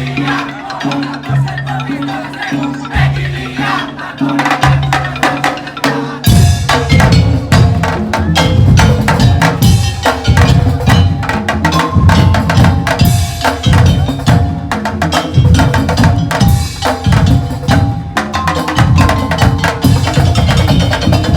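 Madurese ul daul (tong-tong) percussion ensemble playing a rhythmic piece over a stepping bass pattern. About six seconds in, the full drums and percussion come in louder and denser with rapid hits.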